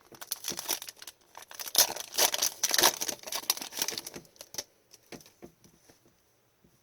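Rustling and crinkling from hands handling hockey trading cards and their foil pack wrapping, a dense crackle for about four seconds that thins out to a few light clicks.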